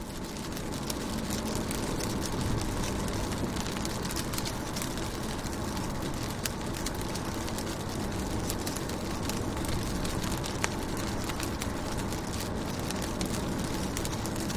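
Rain falling steadily on a car's windows and body, heard from inside the car: a constant hiss and low rumble dotted with many small drop ticks.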